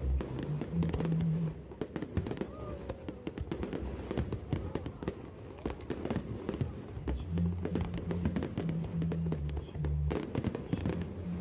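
Fireworks going off in a dense run of sharp, irregular pops and crackles, with music playing underneath; the music's bass notes drop out for several seconds in the middle and return near the end.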